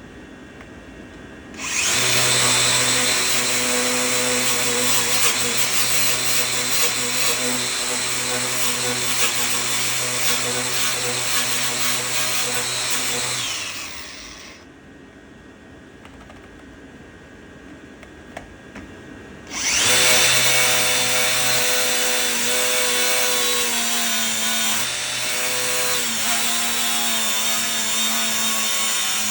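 A handheld electric power tool runs steadily for about twelve seconds and stops. After a short pause it starts again and runs on, and its pitch drops slightly partway through the second run as it takes load.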